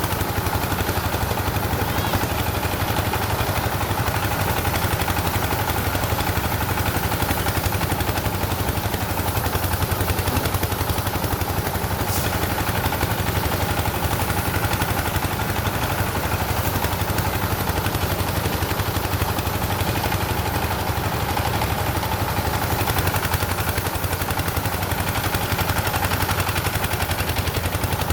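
An engine running steadily with a rapid, even chugging, like a small farm machine's engine at work.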